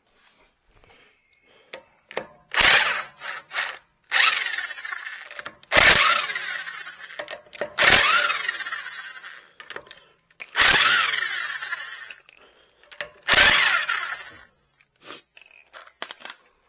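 Power tool run in about six bursts of one to two seconds each, every burst starting sharply and trailing off.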